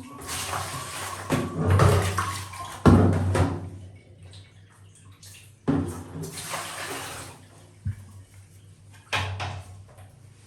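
Water splashing and sloshing in about five separate bursts, each a second or so long, with quieter gaps between them.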